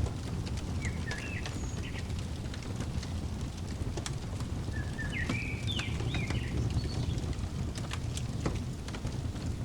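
Wood fire crackling in a fireplace: a steady low rumble of flames with scattered sharp pops. A songbird sings two short chirping phrases over it, about a second in and again around five to six seconds.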